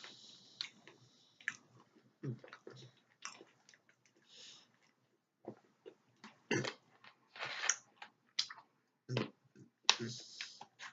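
A person chewing and eating peanut butter close to the microphone: irregular sticky mouth smacks and clicks.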